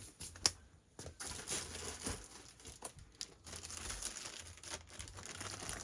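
Rustling and crinkling with scattered clicks, the sharpest about half a second in: small chainsaw parts being handled on the workbench.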